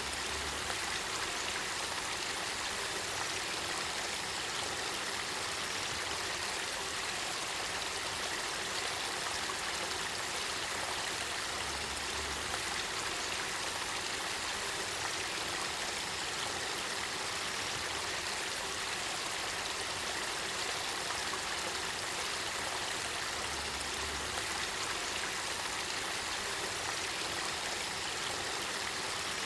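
Spring-fed river water running and babbling in a steady, even rush.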